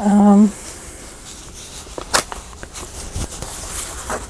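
A short hummed vocal sound at the start, then scattered light rustles and taps of craft fabric and paper being handled and sorted on a worktable.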